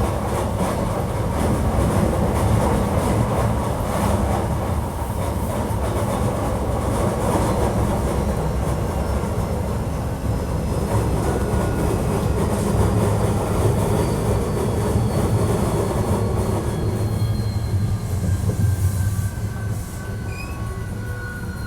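Hankyu 1300 series electric train heard from inside the car while running: a steady rumble of wheels on rail. From about three-quarters of the way in, a thin whine glides downward in pitch, and the sound eases off slightly near the end.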